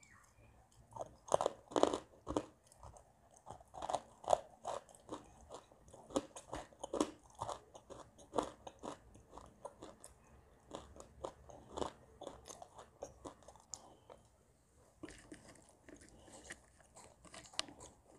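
A person biting into and chewing crunchy food: a run of irregular crisp crunches, loudest in the first few seconds, with a short lull about three quarters of the way through before the crunching starts again.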